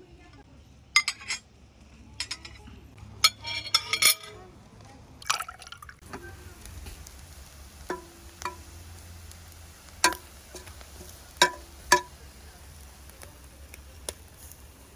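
Cooking utensils clinking and knocking against cookware: a series of sharp clinks, several ringing briefly.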